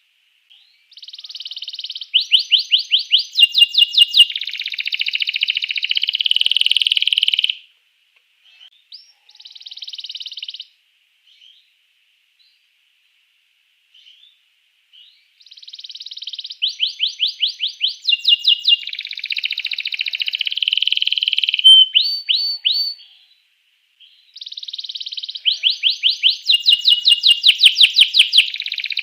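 Domestic canary singing in long phrases of rapid repeated chirps and buzzy rolling trills. The song breaks off for several seconds in the middle and starts again twice.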